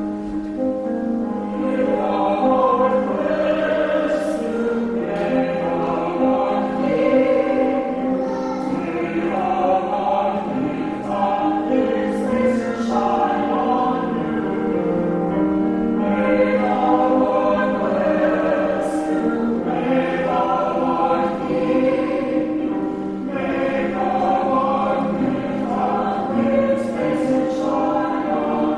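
Small vocal ensemble of mixed voices singing slow sustained chords in harmony, a sung closing response.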